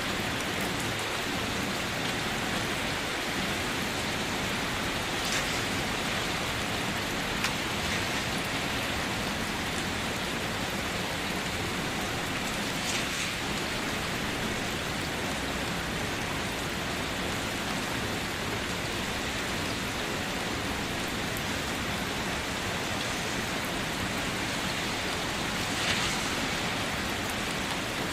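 Steady, even rainfall, with a few single louder drops now and then.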